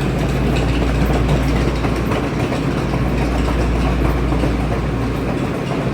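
Metro rail train running through the station: a steady, loud running noise with a low hum underneath.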